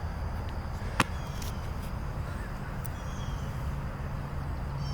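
A single sharp smack about a second in, typical of a football striking hands, over a steady low outdoor rumble, with a few faint high bird chirps.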